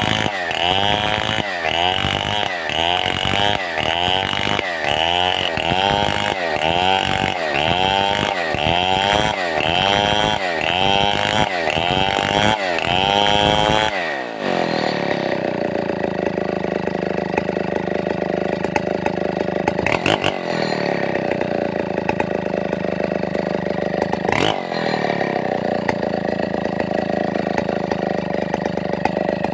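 Stihl 070 two-stroke chainsaw cutting through wood lengthwise, its engine speed rising and falling about once a second under load. About fourteen seconds in the saw drops to a steady idle, with two sharp clicks later on.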